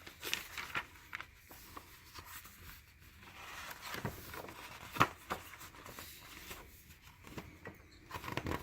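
Quiet handling of a handmade paper journal: soft rustling of pages being turned and looked through, with scattered light clicks and taps and one sharper click about five seconds in.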